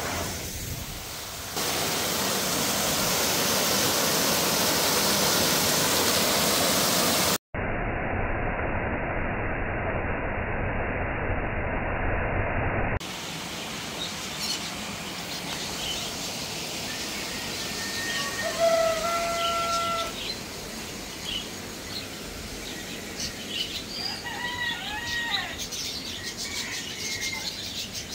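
A loud, steady rushing noise that changes abruptly a few times, then gives way about halfway through to a quieter outdoor background with birds chirping and calling in short, clear notes.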